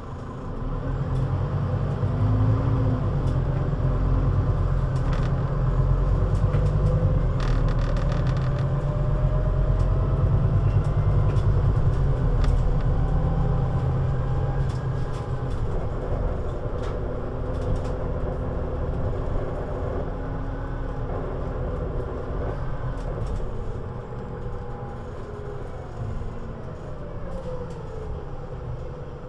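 Scania Citywide LFA articulated city bus (CN320UA 6x2/2) under way: the engine loads up sharply about half a second in as the bus pulls away, runs hard for roughly half the stretch with a rising whine, then eases off and quietens toward the end.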